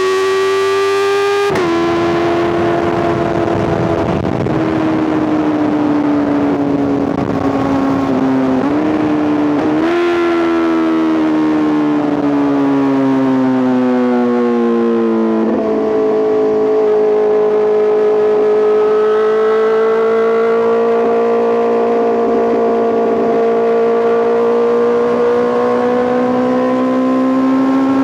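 Honda CBR650R's inline-four engine running through an Arrow Pro Race titanium full exhaust while riding. The note drops sharply about a second in, then sinks slowly with a couple of short blips. It jumps up at about ten seconds, sinks again, and jumps at about fifteen seconds before holding a steady, slowly rising tone.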